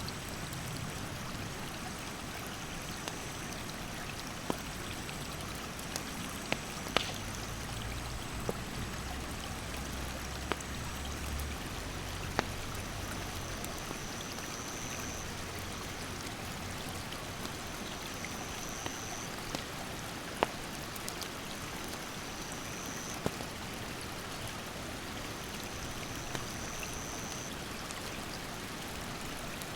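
Steady rushing of a mountain stream with a wood campfire crackling in scattered sharp pops, one louder snap about twenty seconds in. A high-pitched insect call repeats in roughly one-second stretches every few seconds.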